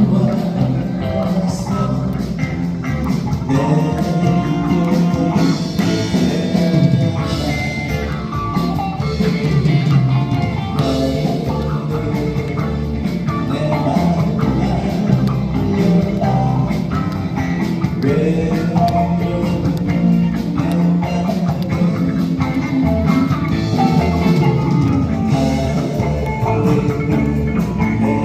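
Live rock band playing a song: electric guitar, bass and drum kit, with a vocalist singing over them.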